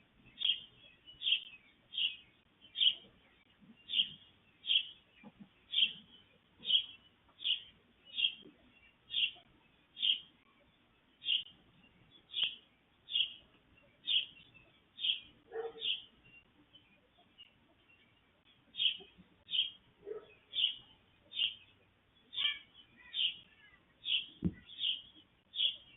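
A bird chirping over and over, one short call about every three-quarters of a second, with a pause of a few seconds past the middle. A single dull thump comes shortly before the end.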